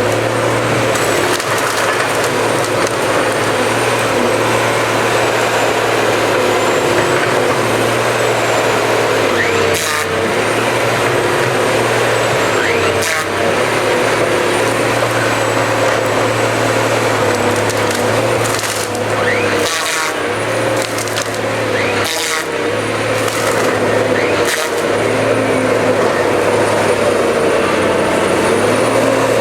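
Cut-to-length harvester running steadily while its head feeds, delimbs and cuts a tree. Several sharp cracks of limbs snapping and wood splintering come from about a third of the way in.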